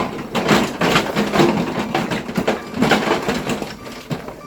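Loud, irregular crunching and scraping with sharp knocks, as of rough building material being broken or shifted.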